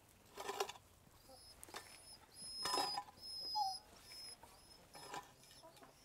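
A small bird's faint, high, short chirps, repeating about twice a second, with a few soft scrapes and thumps from compost being shovelled into a plastic bucket, the loudest around the middle.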